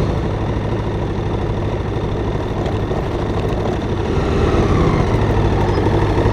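Twin-cylinder adventure motorcycle engine running steadily, a dense low rumble.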